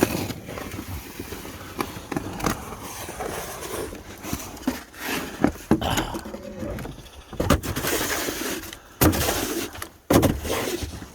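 Snow shovel scraping and pushing snow, with irregular scrapes and several sharp knocks of the blade.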